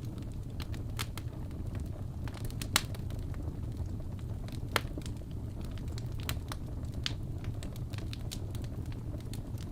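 Wood fire burning in a fireplace: a steady low rumble of flames with irregular sharp crackles and pops from the burning logs, two louder snaps about a third and halfway in.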